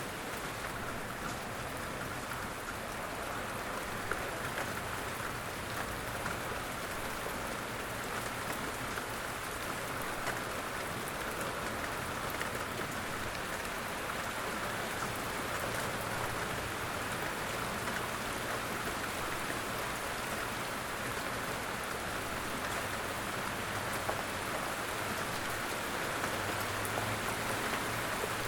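Light rain falling steadily, an even hiss with scattered single drops ticking through it. A low rumble grows near the end.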